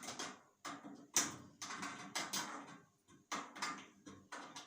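Metal clinks and knocks from bolting together the steel panels of a modular firewood rack: a run of irregular sharp clicks as the parts, bolts and nuts are handled and fitted.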